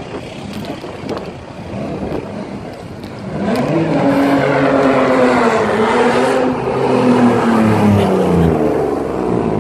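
Modified car's engine revving hard as it pulls away, loud from about three seconds in, its pitch climbing and then rising and falling with the throttle, over the lower running of other cars.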